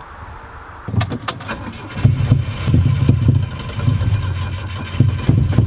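A few sharp knocks, then an old car's engine starting and running with an uneven, pulsing low rumble and occasional knocks. The exhaust pipe is hanging loose, and the driver takes the really weird sound for something bouncing around at the back.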